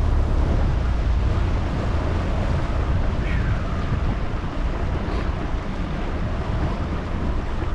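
Wind buffeting the microphone, with a steady rush of water on the boat; the low rumble eases about a second in.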